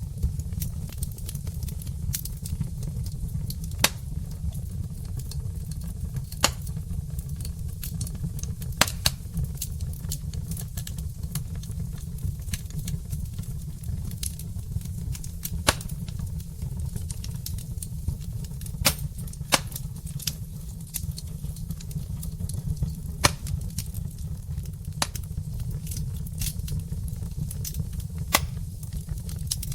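Log fire in a fireplace crackling, with sharp pops at irregular intervals over a steady low rumble.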